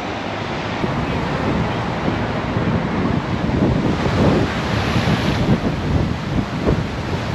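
Gusty wind buffeting the microphone over the steady wash of sea surf, the gusts growing stronger about halfway through.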